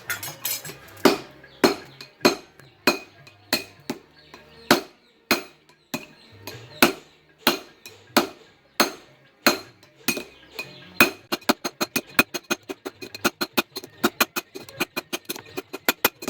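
Hand hammer striking steel on an anvil with a metallic ring, about one blow every 0.6 s; from about 11 s in the blows come quicker and lighter, roughly five a second, as the truck leaf-spring steel is forged into a golok blade.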